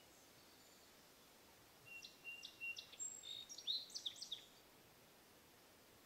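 A songbird singing a short, varied phrase of high chirps and whistles, starting about two seconds in and lasting a couple of seconds, over a faint steady hiss.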